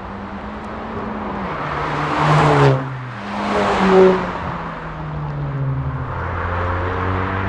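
Hyundai i30 1.4 T-GDi's turbocharged four-cylinder petrol engine running through a custom exhaust, with the engine note rising under throttle. It breaks off sharply about three seconds in, swells again at once, then settles into a steadier drone.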